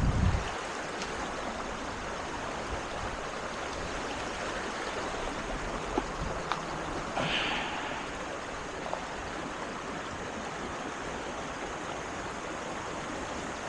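Creek water running steadily in the shallows, with a low bump right at the start and a couple of small clicks.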